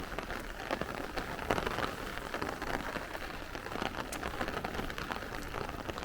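Moderate rain falling steadily, a dense patter of individual drops.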